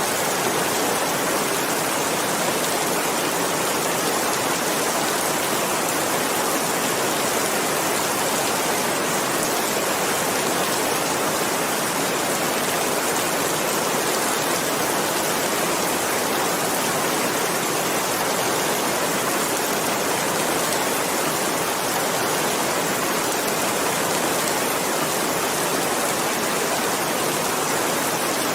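Steady, unbroken rainfall: a dense even hiss of rain with no distinct drops, thunder or pauses.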